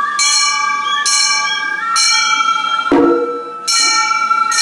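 Gion-bayashi festival music: small hand-held bronze gongs (kane) struck about once a second with a bright metallic ring, over a held flute line that steps to a new note partway through.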